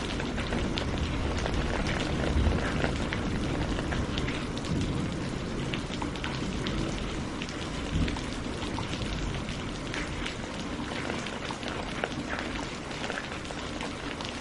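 Steady rain, with many individual drops striking close by in quick, irregular hits over a constant wash of rainfall.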